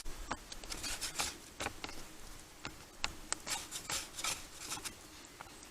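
Hands pressing and folding soft biscuit dough on a floured surface: soft rubbing with scattered light pats and taps at an irregular pace.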